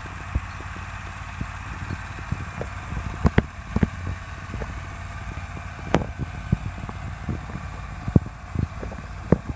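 Scag Turf Tiger zero-turn mower engine running steadily, with irregular sharp knocks and some wind on the microphone.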